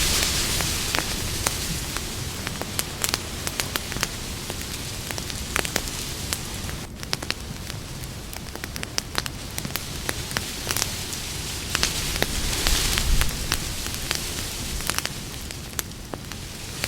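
Wood campfire crackling, with sharp pops and snaps scattered irregularly over a steady hiss. The hiss swells briefly at the start and again about thirteen seconds in.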